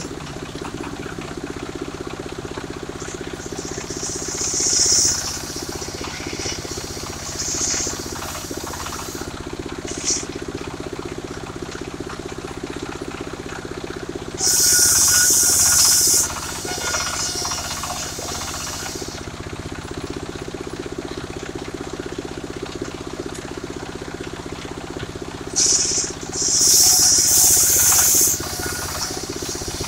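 Engine-driven circular sawmill running steadily, its blade cutting through sengon wood in loud high-pitched bursts. The longest cuts last about two seconds midway and again near the end.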